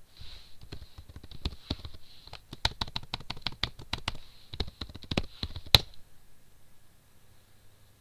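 Typing on a computer keyboard: a run of irregular keystrokes, ending about six seconds in with one sharper, louder keystroke.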